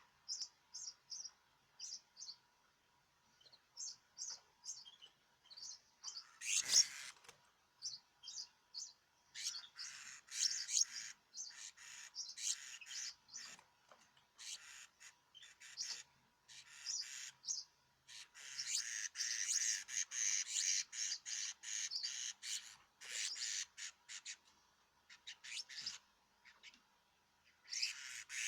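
Small caged songbirds chirping: spaced single high chirps for the first several seconds, then bursts of fast trilling song, the longest running for several seconds about two-thirds of the way through.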